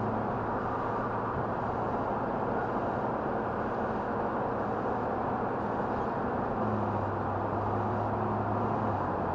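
Cabin noise inside a truck driven on a racetrack: a steady rush of road and wind noise over a low engine hum. The hum eases off mid-way and grows again about two-thirds of the way in.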